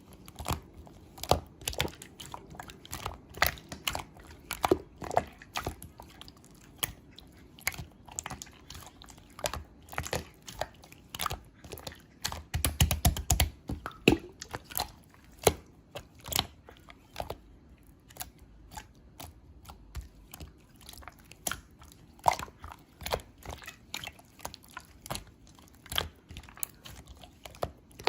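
Clear slime being pressed, poked and stretched by hand, making a string of irregular sharp clicks and pops, denser and louder about halfway through.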